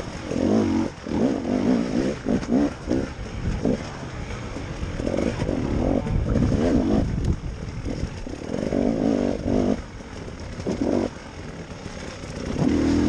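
KTM enduro motorcycle engine revving in quick bursts, the throttle blipped open and shut over and over, with calmer stretches of lower revs in between, heard from on board the bike.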